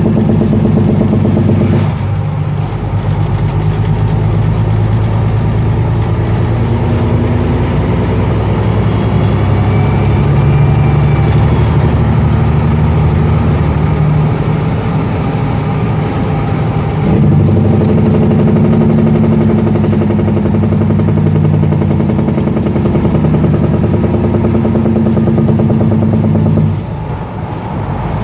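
Peterbilt semi truck's Caterpillar 6NZ inline-six diesel running loudly through 8-inch stacks while driving. The engine note changes about two seconds in and again past the middle, and dips briefly near the end. A high turbo whistle rises and falls about a third of the way in.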